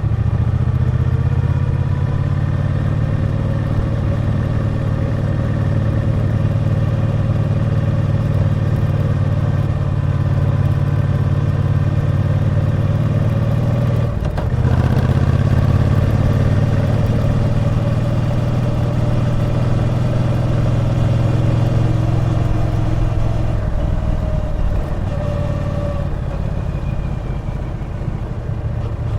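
Triumph Bonneville T120's 1200 cc parallel-twin engine running under way, a steady engine note heard while riding. About halfway through it dips briefly and picks up again, like a gear change, and it eases off a little near the end.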